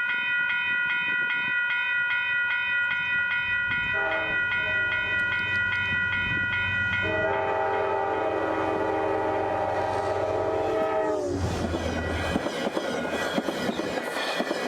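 Metro-North P32AC-DM diesel locomotive sounding its multi-chime air horn in long, chord-like blasts as it approaches. The horn tones sag slightly in pitch as it passes, and the horn stops about eleven seconds in. After that the train rushes by with the noise of its wheels on the rails.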